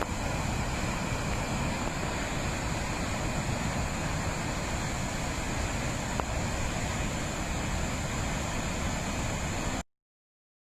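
Steady rushing noise of heavy rain, with wind rumbling on the microphone; it cuts off abruptly near the end.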